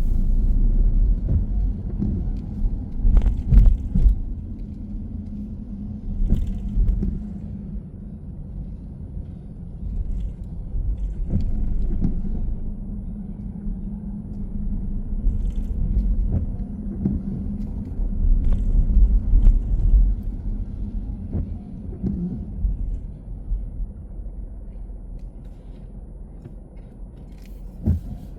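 A moving car's low, steady rumble of engine and road noise that swells and eases as it drives, with scattered short knocks, the strongest a few seconds in.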